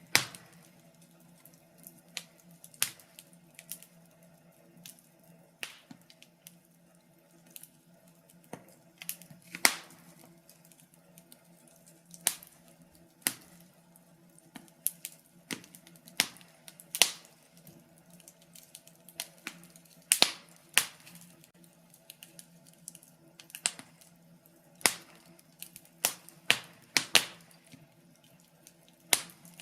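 Wood fire crackling in a fireplace: irregular sharp pops and snaps, one or two a second with short lulls, over a faint steady low hum.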